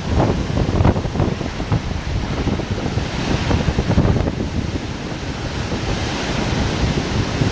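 Hurricane-force wind buffeting the camera microphone in irregular gusts, a low rumble under a steady rushing hiss.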